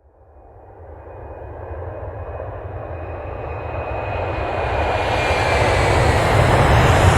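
A-10 Thunderbolt II's twin turbofan jet engines growing steadily louder as the jet approaches, with a thin high whine over the rush that slowly drops in pitch.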